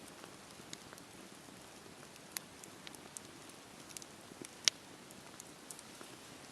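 Campfire crackling: a steady low rush of burning with irregular sharp pops and snaps, one louder pop about two-thirds of the way through.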